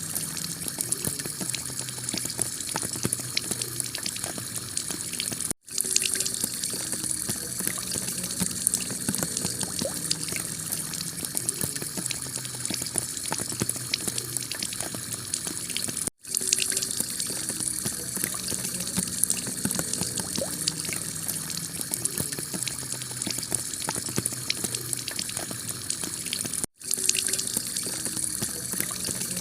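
Heavy rain falling on a clay tile roof: a steady, dense hiss with many small drop ticks. It cuts out for a split second three times, about every ten seconds.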